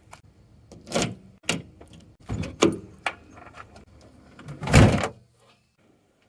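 A series of knocks and clunks, then a door shutting with a heavy thud about five seconds in.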